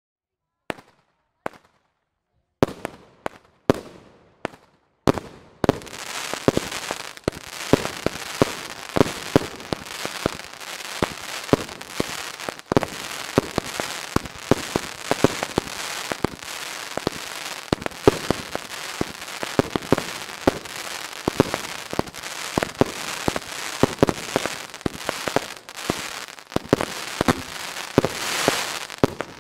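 Fireworks going off: a few separate bangs at first, then from about six seconds in a dense run of crackling with frequent loud bangs over it, swelling louder near the end.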